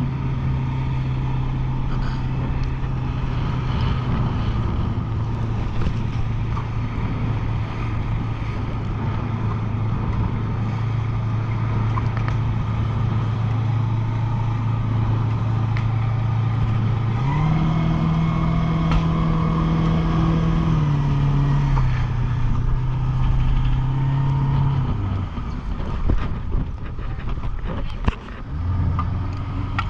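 Motorboat engine running steadily; its pitch rises about halfway through, then drops back in steps and cuts out, followed by a few knocks and a lower hum starting near the end.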